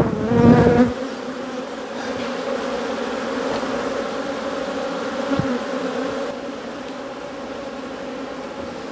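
A large colony of honeybees buzzing in a steady, dense hum, the sound of disturbed, defensive bees swarming around their exposed hive. A short bump of handling noise comes at the very start.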